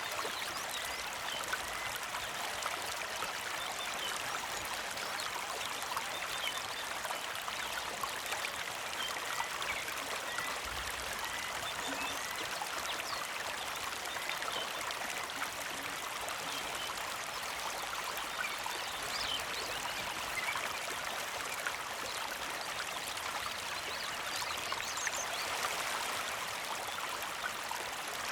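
Small mountain creek flowing and trickling steadily, with scattered short bird chirps over the water.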